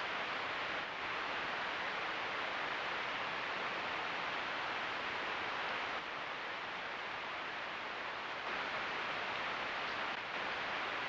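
Steady hiss from a trail camera's own microphone, with small dips in level about a second in, around the middle and near the end.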